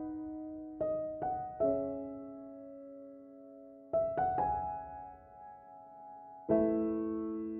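Soft, slow background piano music: single notes and small chords are struck a few at a time, each left to ring and fade before the next.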